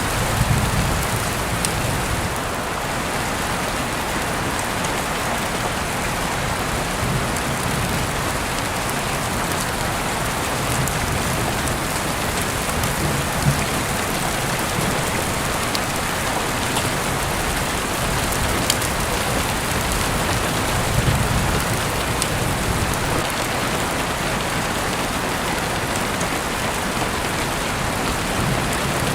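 Heavy rain falling steadily as heard through an open window, a dense even hiss with scattered sharp drop ticks. A few brief low rumbles swell up along the way.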